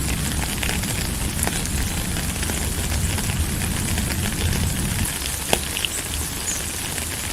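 Steady rain falling, a dense hiss dotted with many small drop ticks and one sharper drop about five and a half seconds in. A low rumble underneath eases about five seconds in.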